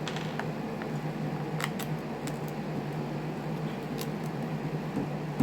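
Scattered light clicks and ticks of a tool and plastic trimmer parts being handled during disassembly, over a steady low hum, with one sharper click at the end.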